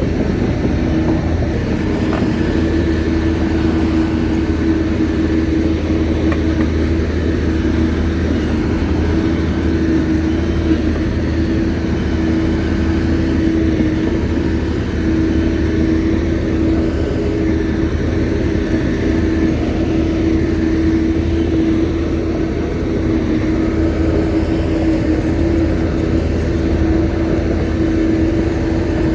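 Shantui bulldozer's diesel engine running steadily under work, a constant drone with a steady hum.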